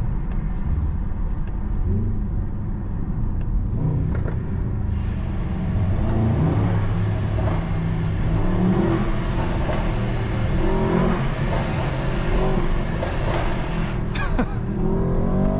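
Mercedes-AMG S63's twin-turbo 4.0-litre V8 accelerating hard in first gear through a tunnel. The engine sound grows louder and fuller about five seconds in, and a rising rev comes near the end.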